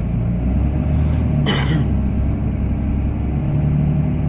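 Cummins inline-six turbodiesel of a Ram pickup running steadily while plowing snow, a low drone heard from inside the cab. A brief noise stands out about one and a half seconds in.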